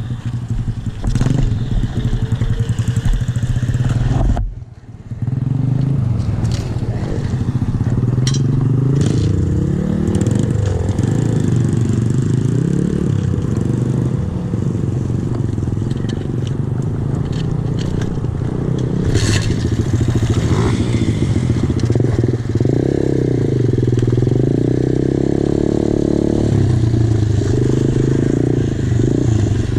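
125cc single-cylinder four-stroke pit bike engine running under way, its pitch rising and falling as the throttle is opened and closed. The sound drops out briefly about four seconds in.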